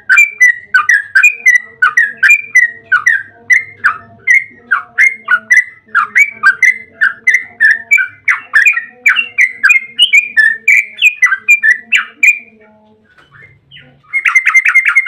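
Yellow-vented bulbul (trucukan) singing a long, rapid run of short chattering notes, about four a second, which stops about twelve seconds in. Near the end, a quicker trill begins.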